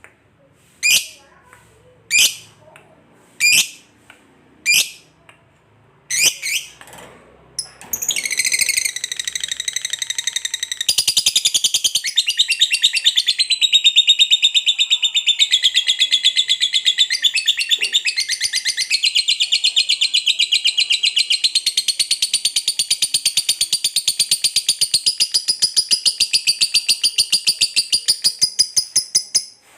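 Lovebird calling: a few single sharp chirps about a second apart, then from about eight seconds in a long, fast, unbroken chattering trill lasting some twenty seconds. This is the prized 'ngekek panjang', the long chatter of a lovebird in full song.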